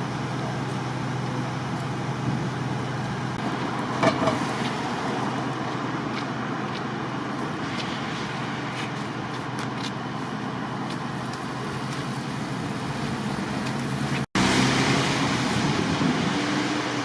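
Steady city street traffic noise with motor vehicle engines running. The sound drops out for an instant about fourteen seconds in, then resumes slightly louder.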